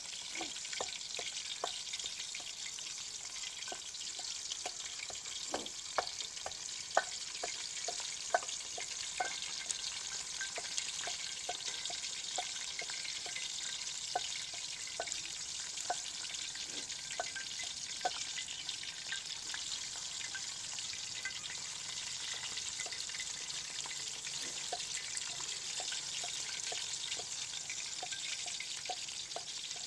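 Chicken pakoras deep-frying in oil in a karahi, a steady sizzling hiss, with scattered light knocks and taps throughout.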